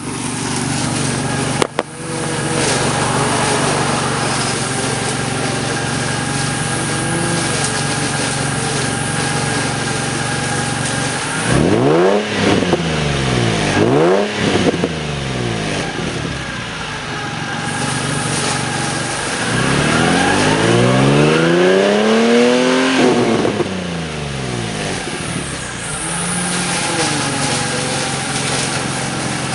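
Nissan 350Z's 3.5-litre V6 idling through open headers with no catalytic converters and a Tsudo exhaust. It is revved twice in quick succession about twelve seconds in, then held up in one longer rev around twenty seconds, before falling back to idle.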